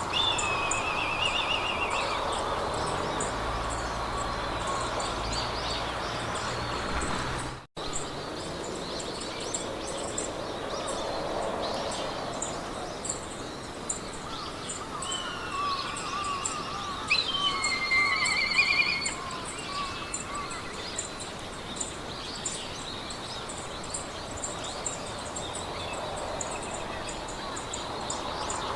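Meadow ambience: songbirds singing trilled phrases over a fast, steady, high-pitched insect chirping and a soft hiss of wind in the grass. The sound cuts out for an instant about eight seconds in.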